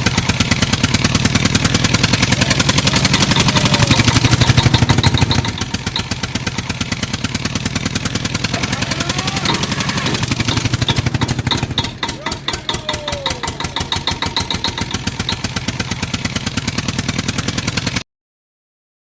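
Tractor engine running with a steady, rapid chug, loudest for the first five seconds and then easing to a lower, even level. It cuts off abruptly about a second before the end.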